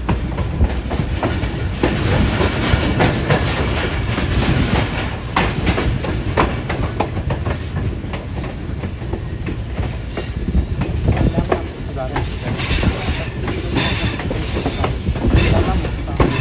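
Hazara Express passenger train running on the rails, wheels clattering over rail joints. In the last few seconds a high-pitched metallic wheel squeal joins in.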